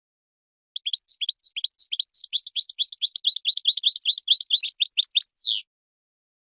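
European goldfinch singing: a rapid, continuous run of short twittering notes lasting about five seconds, ending in a single falling note.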